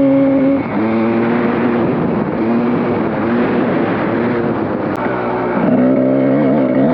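Dirt bike engine running under way, its pitch rising and falling with the throttle, over a steady rush of noise.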